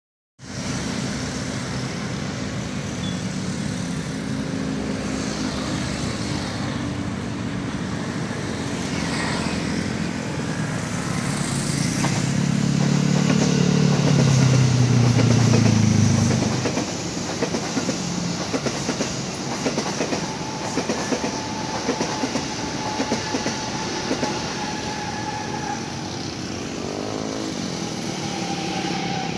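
An electric commuter train passing, its wheels clicking rapidly over the rail joints. About halfway through, a louder low rumble swells and fades as a vehicle passes close by.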